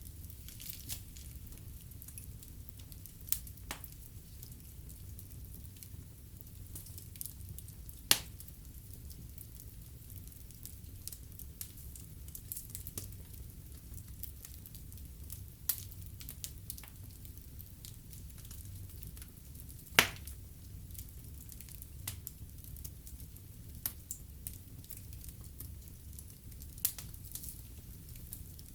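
Wood fire burning in a fireplace, crackling with scattered sharp pops over a low steady rumble. Two pops stand out as much louder, about eight seconds in and again about twenty seconds in.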